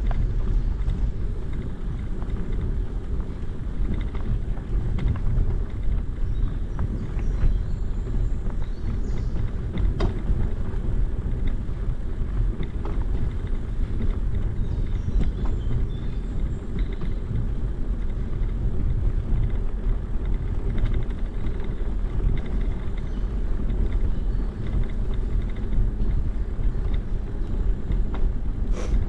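Steady low rumble of wind on the microphone and tyres rolling during a bicycle ride.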